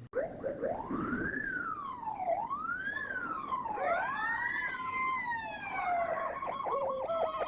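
Fire truck sirens wailing: the pitch rises and falls in long sweeps, and a second siren joins in partway through. Near the end the sound switches to a fast yelp.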